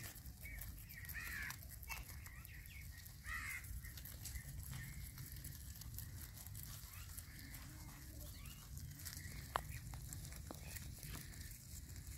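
Faint outdoor ambience: bird calls twice in the first few seconds over a low rumble, with scattered small clicks and one sharper click later.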